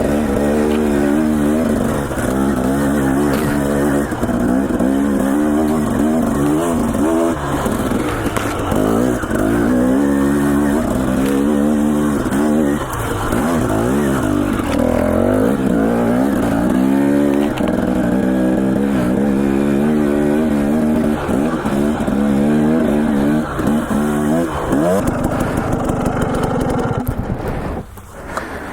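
Dirt bike engine revving up and down as the rider works the throttle, its pitch rising and falling every second or so. It eases off shortly before the end.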